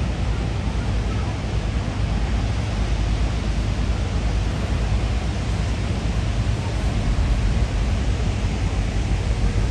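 Steady rushing water of the Rideau Falls, an even hiss over a heavy low rumble.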